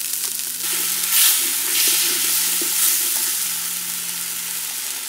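Ground mint paste sizzling as it goes into hot oil and is stirred in the pan. The hiss swells about a second in and again near three seconds.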